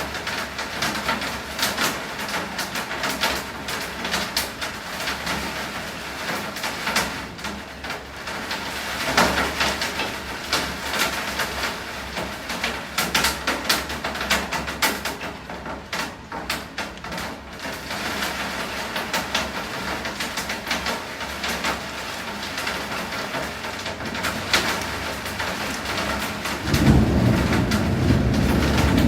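Heavy rain falling, with many irregular sharp ticks of drops striking hard surfaces. Near the end a low rumble of thunder comes in and grows louder.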